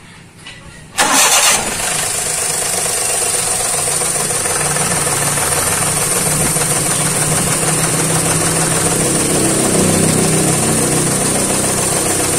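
Daihatsu Xenia 1000's three-cylinder engine cranked and catching about a second in, then idling steadily. It runs rough, missing on cylinder 3 because of a cracked, dead ignition coil.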